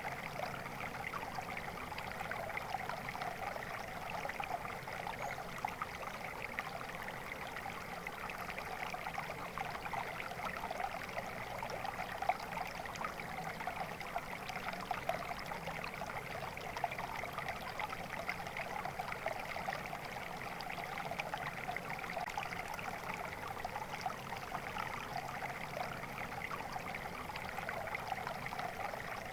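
Flowing water in a small stream, a steady babbling trickle over stones.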